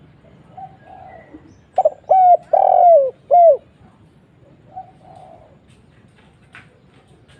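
Spotted dove (tekukur) cooing: a loud phrase of four falling coo notes about two seconds in, with fainter coos shortly before and after it.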